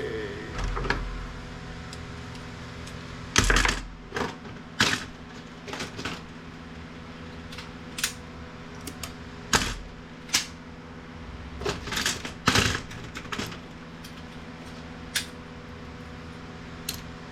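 Irregular clicks, clacks and knocks of plastic and metal printer parts being handled and pried apart, a dozen or so sharp hits scattered through, over a steady background hum.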